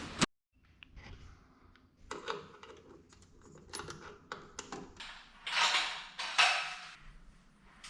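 Hand tools and metal hardware clicking and clinking during work on a garage door opener, with two longer rustling scrapes about five and a half and six and a half seconds in.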